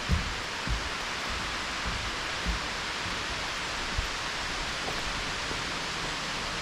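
Steady hiss of rain falling on the forest canopy and leaves, with a few soft, irregular low thuds of footsteps on the trail.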